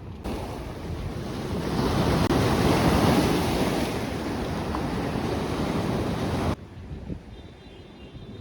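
Sea waves breaking and washing up the beach, with wind buffeting the microphone. The surf swells to its loudest about two to three seconds in, then cuts off abruptly near the end, leaving a quieter wash.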